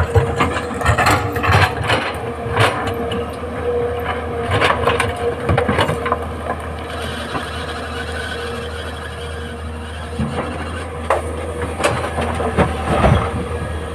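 Tata Hitachi excavator's diesel engine running steadily with a constant whine, under irregular knocks and clatter of the machine working, thickest in the first six seconds and again near the end.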